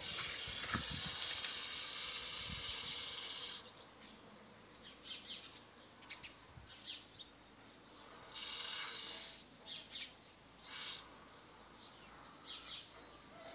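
Small birds chirping in short high calls, with a steady hiss in the first three and a half seconds and two brief bursts of hiss later on.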